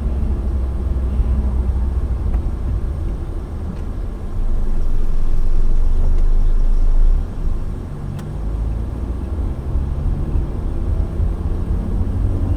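Low, steady rumble of road and engine noise from a moving car, louder for about three seconds near the middle, with a faint engine hum rising in pitch toward the end.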